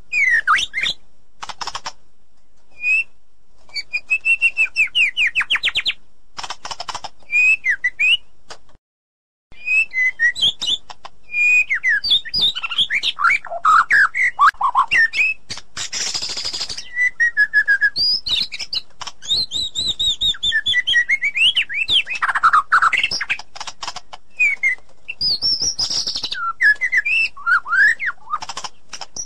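White-rumped shama singing a varied string of loud whistled phrases, fast trills and rapid repeated notes. The song breaks off for under a second about a third of the way in.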